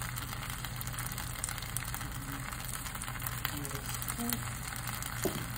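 Shrimp fried rice frying in a wok: a steady sizzle with many small crackling pops.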